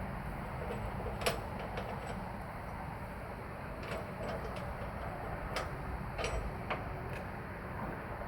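Shopsmith Mark V 500 headstock and quill being worked: a scattering of short, light metallic clicks and knocks, about eight at irregular moments, over a steady low rumble.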